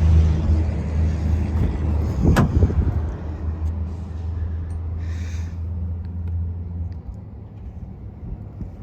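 A motor vehicle engine running with a steady low hum that drops away about seven seconds in. A single sharp click comes about two and a half seconds in, and a short hiss about five seconds in.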